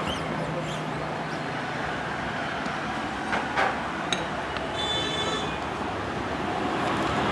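Steady background traffic noise, with a couple of faint metallic clicks about three and a half seconds in.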